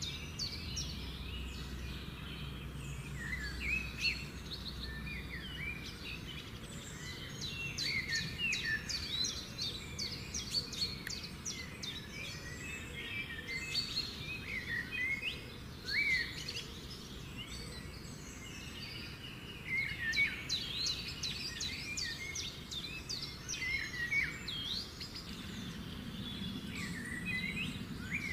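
Wild birds chirping and calling in a tropical garden, with many short sliding notes overlapping in quick runs over a low steady background noise.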